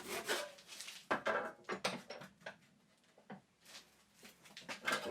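Short, irregular strokes and knocks of a hand saw and plywood strips being worked, with a quiet pause in the middle; sawing picks up again near the end.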